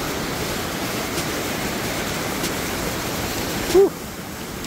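Steady rushing of a waterfall and fast-flowing creek water, with a few faint clicks.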